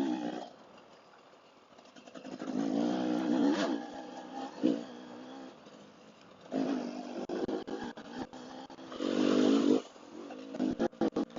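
Dual-sport motorcycle engine revving in three short bursts of throttle that rise and fall in pitch, with quieter running between them. A few sharp knocks come near the end.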